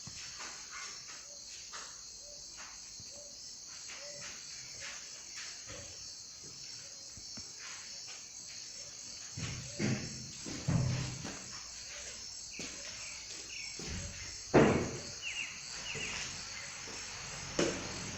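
Steady high-pitched trilling of a cricket chorus, with scattered clicks and a few louder knocks, the loudest about fourteen seconds in.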